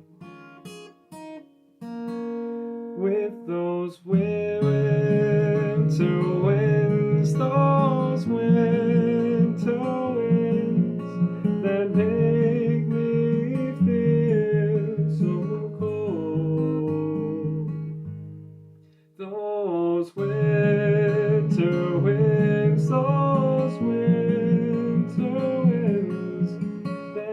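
Acoustic guitar playing an instrumental passage: a few sparse notes at first, then steady picked and strummed chords that fade to a brief pause about two-thirds of the way through before starting again.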